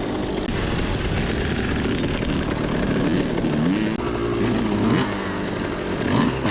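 Two-stroke dirt bike engine running hard on a trail ride, its pitch climbing and dropping several times as the throttle is worked and gears change, over a steady rush of noise.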